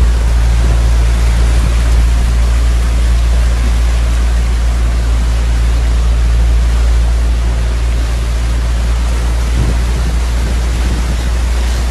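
Heavy rain pouring, an even hiss, over a loud steady low rumble.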